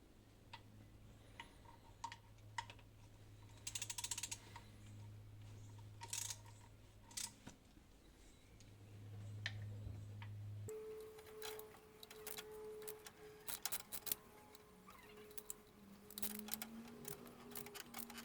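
Hand tools clicking and clinking on metal, with short bursts of ratcheting, over a steady low hum that stops abruptly about ten seconds in and gives way to a faint steady tone.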